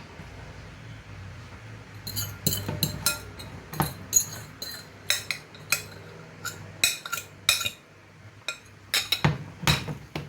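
A kitchen utensil clinking and knocking against a cooking pot in many quick, irregular strikes, starting about two seconds in, over a steady low hum.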